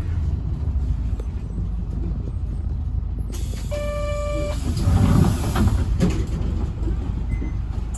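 Tokyu Bus H854 heard from inside, its drive running with a steady low rumble. About three and a half seconds in comes a hiss of air, with a short electronic beep during it, and the low rumble swells a moment later.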